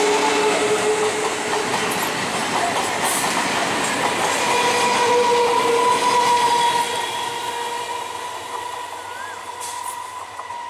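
Electric multiple unit local train running past close by: wheels clattering over the rail joints amid a loud rumble, with a steady high whine setting in about four seconds in. The noise drops away after about seven seconds as the train passes.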